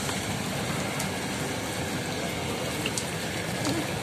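Pouring rain falling onto a pond's surface: a steady hiss with a few sharper drop ticks.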